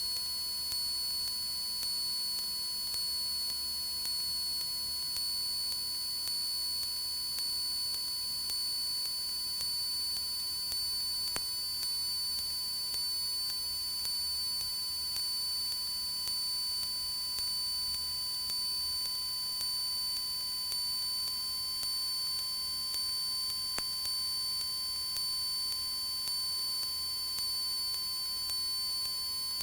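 Steady high-pitched electrical whine with fainter higher and lower tones on a Cessna 172's intercom audio feed, its pitch wavering slightly, with the engine's drone faint and muffled underneath.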